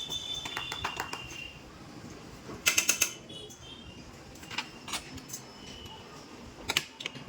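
A few sharp clicks and clinks, the loudest a quick cluster of four about three seconds in, then single ones a little later.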